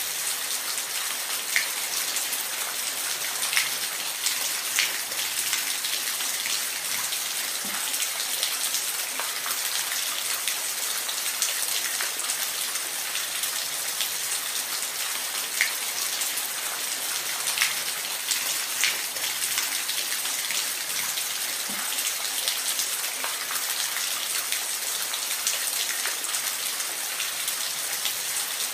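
Steady rain falling, an even hiss with scattered louder drops pattering on a surface.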